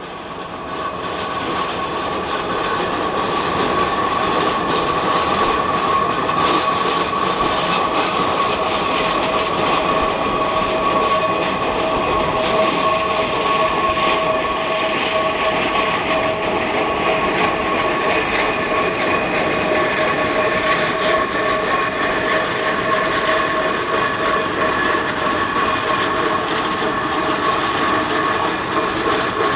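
Geared steam locomotive running on the track, growing louder over the first few seconds, with a steady high ringing tone held throughout.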